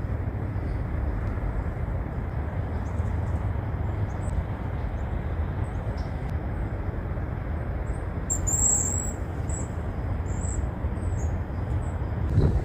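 Waxwings giving many short, high, thin calls, loudest about nine seconds in, over a steady low rumble.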